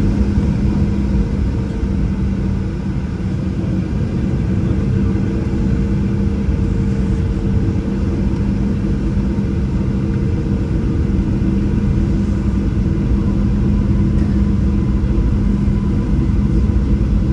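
Cabin noise inside a Boeing 737-800 with its CFM56 engines running: a steady low hum over a rumble, holding the same pitch with no spool-up.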